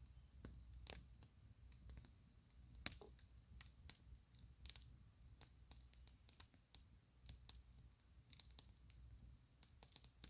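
Faint campfire crackling: irregular sharp pops and snaps of burning wood, the loudest about three seconds in, over a low steady rumble.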